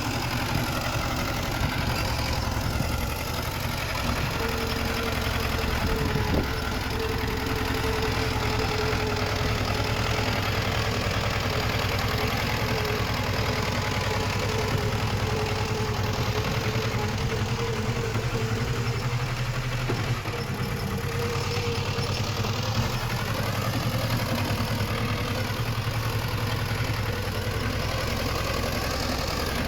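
Komatsu D20 bulldozer's diesel engine running steadily. A thin steady whine sits over it through much of the middle.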